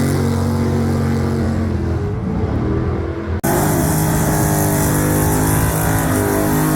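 Vehicle engine running steadily at idle; about halfway through the sound cuts off abruptly to a second running engine.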